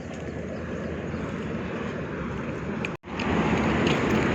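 Road traffic: a steady low rumble of engines and tyres from passing trucks and other vehicles. It cuts out for an instant about three seconds in, then comes back louder.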